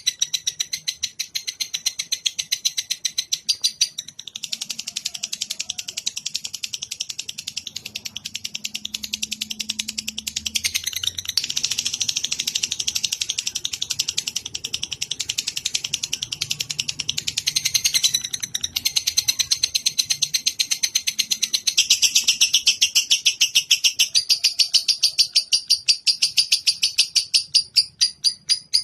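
Recorded songbird song for training cage birds: a long unbroken run of rapid, high, repeated chirps, several a second, whose pattern changes every few seconds.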